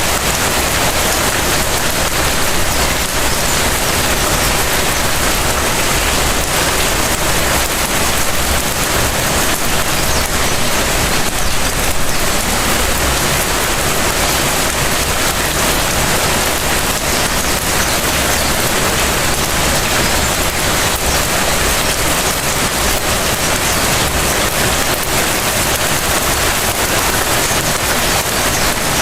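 Light rain falling steadily and pattering on hard surfaces, a dense even hiss with fine drip flecks.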